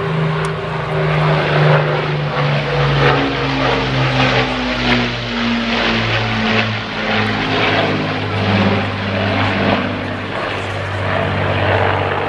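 Propeller-driven aerobatic airplane's engine running loud as it flies past the crowd, its note dropping in pitch as it goes by.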